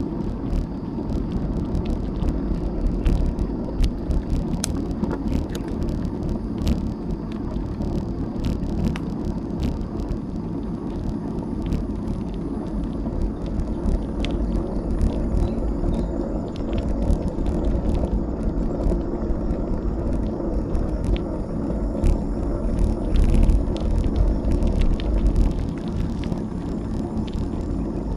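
Bicycle riding along a road, heard from a camera mounted on the bike: a steady low rumble of wind and rolling tyres, with scattered light clicks and rattles throughout.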